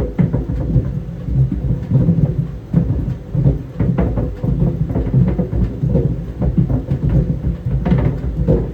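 Tennis balls tumbling in a running clothes dryer, thudding irregularly against the drum a few times a second over the machine's steady rumble and hum.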